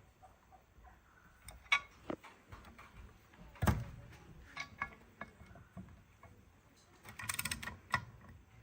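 Scattered metallic clinks and knocks of parts and hand tools as a cylinder head is fastened to a lathe faceplate, with one louder knock a little under halfway through and a quick run of rattling clicks near the end.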